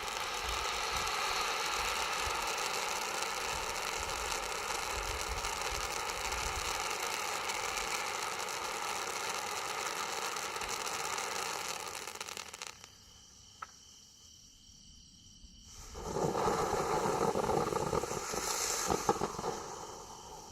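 Neon Fish consumer firework going off: a steady hiss of sparks that stops about twelve seconds in, then after a short pause a louder hiss with crackles.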